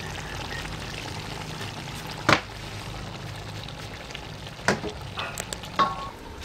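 Hands mixing and squeezing a soy sauce and fish sauce marinade into raw pork in a bowl: a steady wet mixing noise, with sharp knocks against the bowl about two, four and a half and six seconds in.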